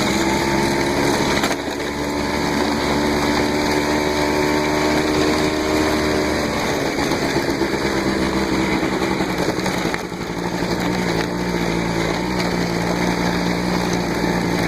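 Small off-road vehicle engine running while riding, its pitch easing down over the first several seconds and then holding steady, with a brief dip about ten seconds in.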